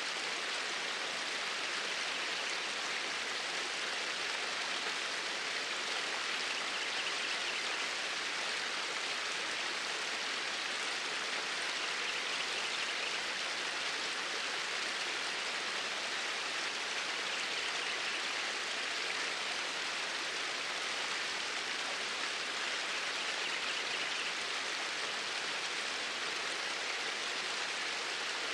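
Flowing stream water, a steady rushing hiss that holds even throughout.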